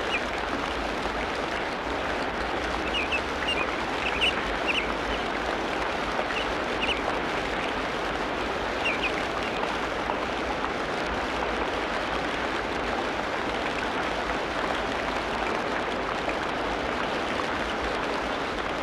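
Tropical rainforest ambience: a steady, dense hiss of falling water, with short, high bird chirps scattered through the first half.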